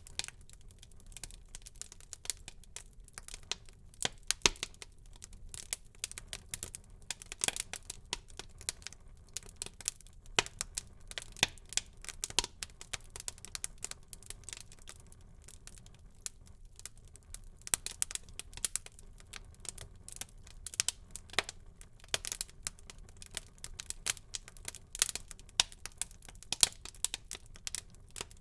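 Wood fire burning in a fireplace, with irregular sharp crackles and pops over a faint low hiss of flames.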